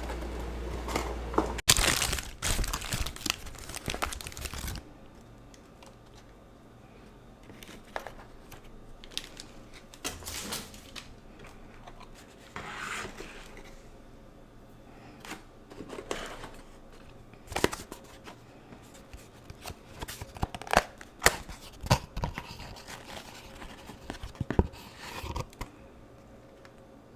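Paper food wrappers and packaging being torn open and crinkled. A dense burst of tearing and rustling comes in the first few seconds, then scattered rustles and light taps as the wrappers are handled.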